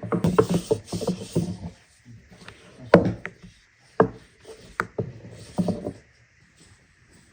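Wooden knocks and scraping from kitchen work on a wooden surface: a quick flurry of clatter, then a few separate sharp knocks and a short last cluster.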